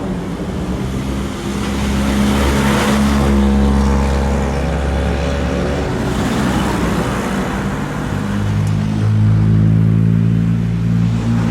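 Modified cars with loud exhaust driving slowly away at low revs. The engine note swells about two seconds in, and a second engine comes up near the end.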